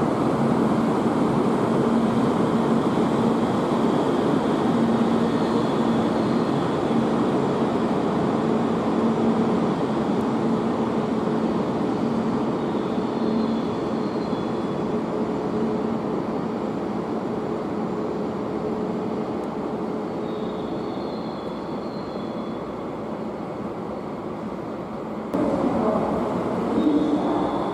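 Shinkansen train pulling out of the station and running away along the platform: a loud rushing noise with a steady hum that slowly fades as it leaves. A different, louder sound starts near the end.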